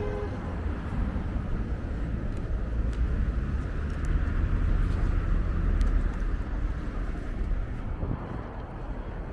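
City street traffic: a passing motor vehicle's low rumble builds to a peak past the middle and then eases off, with wind rumbling on the microphone. A car horn cuts off right at the start.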